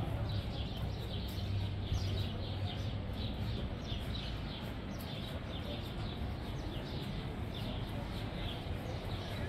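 Small birds chirping over and over in short, quick falling notes, over a steady low rumble.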